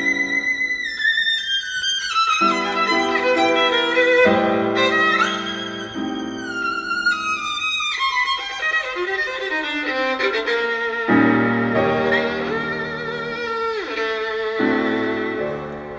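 Background music: a violin playing a slow melody with vibrato over held accompanying chords.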